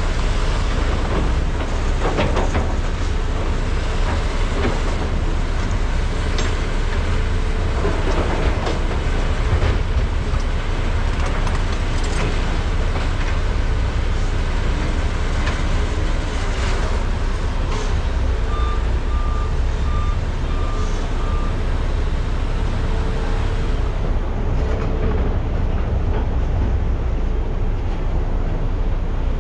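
Heavy diesel engines of Komatsu PC395 and SANY SY485H excavators running steadily as they load trucks, with occasional knocks. About eighteen seconds in, a backup alarm gives about five short even beeps.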